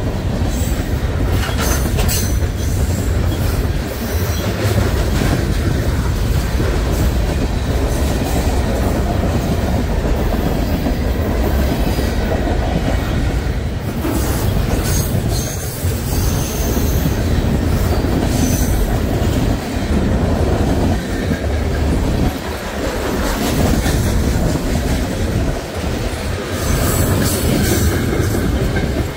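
A train's railcars rolling past, wheels clattering over the rail joints. Brief high-pitched wheel squeals come through about a second in, around the middle, and near the end.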